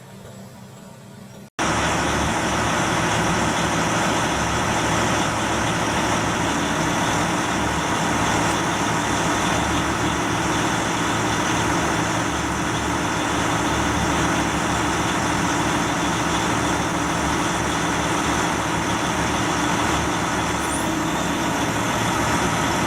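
Large industrial wood chipper running, a steady engine note under a dense, even noise that holds without a break. The sound cuts in suddenly about a second and a half in, after a quiet start.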